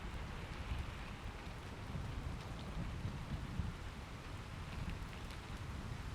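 Steady rain falling, with fine drop ticks over a low, uneven rumble of distant thunder. There is no sharp thunderclap.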